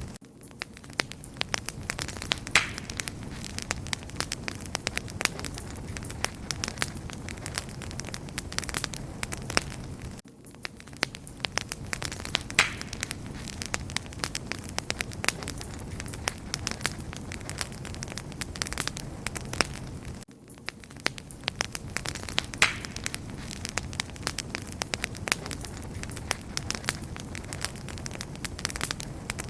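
Wood fire crackling, with dense sharp pops and snaps over a steady low rumble of burning. The same stretch of fire recording repeats about every ten seconds, with a brief drop in level at each join.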